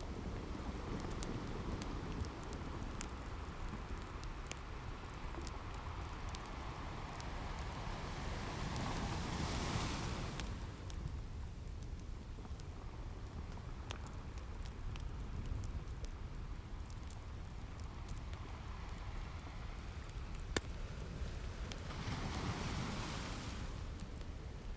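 Waves washing in on a beach, with two louder swells, one about a third of the way in and one near the end, under a steady hiss. A wood fire crackles over it with frequent sharp pops and snaps.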